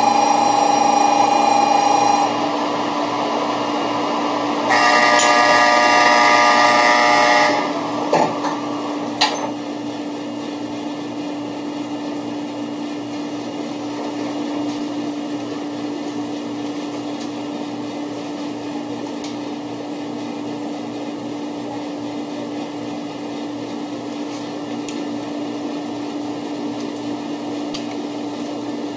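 Steady mechanical hum inside a 0 series Shinkansen car standing at a station platform. Two pitched signal tones sound, one for the first two seconds and a louder ringing one from about five to seven seconds in. Two sharp knocks follow about eight and nine seconds in, and then only the hum remains.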